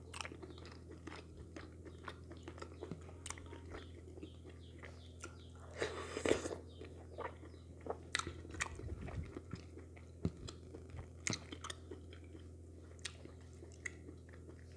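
Close-miked chewing and wet mouth clicks from eating soft wheat fufu dipped in slimy okra soup with the fingers, with a louder run of mouth noise about six seconds in. A steady low hum sits underneath.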